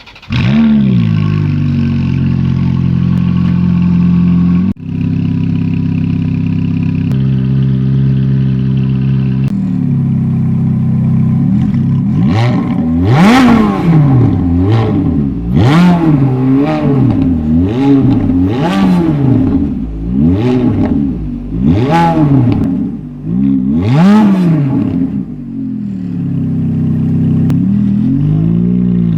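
Ferrari F430's 4.3-litre V8 cold-starting with a quick flare, then holding a high cold idle that steps down twice as it settles. About halfway through it is revved in a run of sharp throttle blips, each rising and falling quickly, before dropping back to a steady idle.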